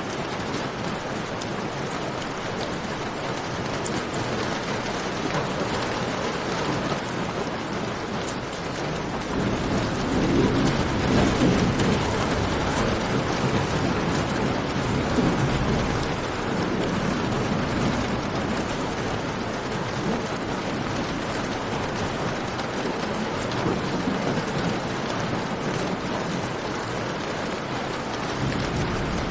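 Steady rain falling, with scattered sharp crackles of a campfire. A low rumble swells about ten seconds in and fades after a few seconds.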